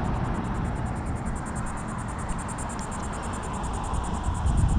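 Insects trilling in a fast, even pulse of about seven beats a second, over a steady low rumble.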